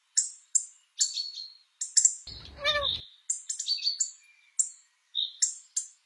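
Songbird chirping: quick runs of short, high chirps with brief silences between, and one longer call that falls in pitch about two and a half seconds in.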